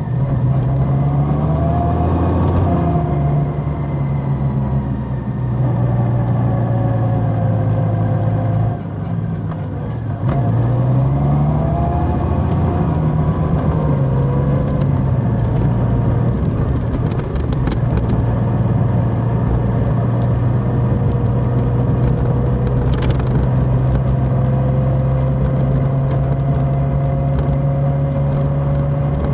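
Large motorcycle engine under way. It climbs in pitch over the first few seconds, dips sharply about nine seconds in, climbs again, then holds a steady cruising note for the second half.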